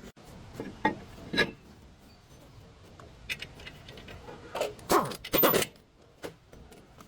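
A series of sharp metallic clanks and scrapes, tools or brake parts being handled, with a busier run of them a little past the middle.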